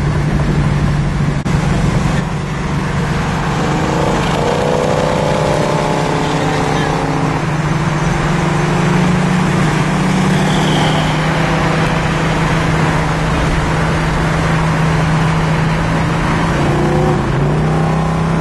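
Classic Mopar muscle car's V8 running steadily at freeway cruising speed, heard from inside the car with road and wind noise.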